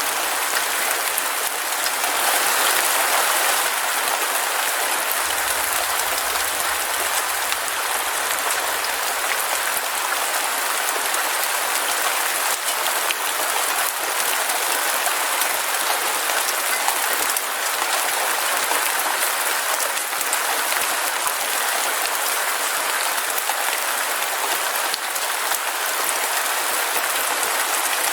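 Heavy rain falling steadily: a continuous hiss of downpour with a dense patter of individual drops crackling through it.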